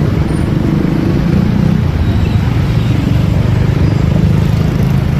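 Motorcycle engine running steadily while riding, a low, even drone with road noise.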